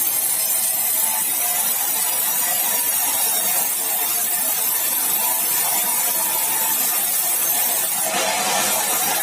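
A sawmill running steadily while it saws a meranti log, a continuous machine noise with a steady whine. The sound turns harsher near the end.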